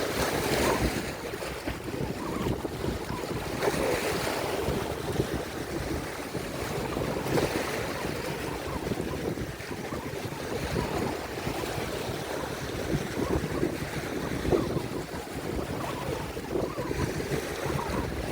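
Lake Erie waves breaking and washing on the shore, a steady wash of surf with a swell every few seconds, with wind buffeting the microphone in low rumbles.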